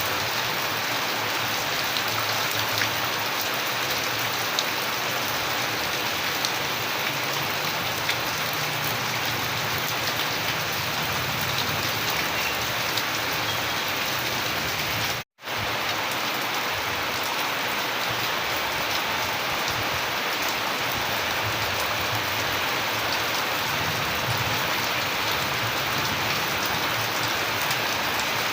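Steady rain falling on surfaces, with scattered drops ticking. The sound cuts out completely for a split second about halfway through, then resumes unchanged.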